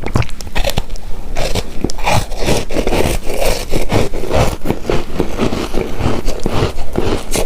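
Close-miked chewing of a chewy coconut-coated rice cake: a dense, continuous run of short clicks and mouth sounds.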